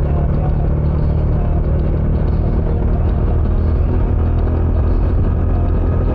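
Bajaj Dominar 400 UG2's single-cylinder engine running steadily through its stock exhaust while the motorcycle cruises at a constant speed, with a deep, even rumble.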